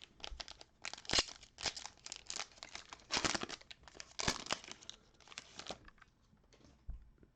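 A foil trading-card pack wrapper being torn open and crumpled: a run of crackling rips and crinkles, loudest about one, three and four seconds in, that stops about six seconds in.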